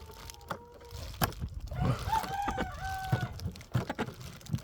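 A rooster crowing once, about two seconds in, with knocks and rustling of handling in the coop around it.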